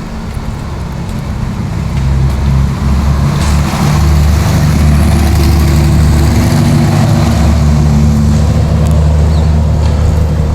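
A motor vehicle engine running, with a low, steady drone that grows louder over the first few seconds and then holds.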